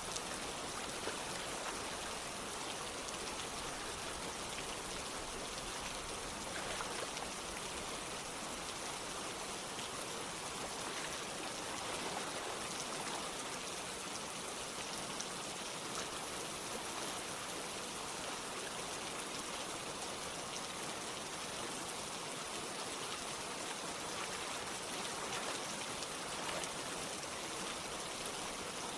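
Steady rain falling together with running water: an even hiss with fine scattered drop patter.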